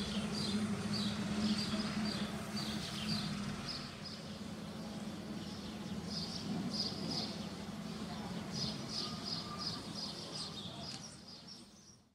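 Outdoor ambience of small birds chirping in short repeated calls, over a steady low hum for the first few seconds; the sound fades out near the end.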